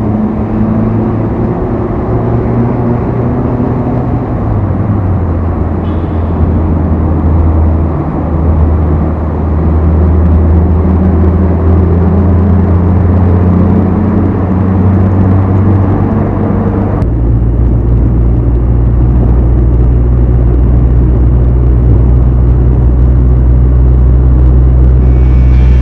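Car engine and road noise heard while driving, the engine note slowly rising and falling with speed. About 17 seconds in it switches abruptly to a steadier, deeper engine hum.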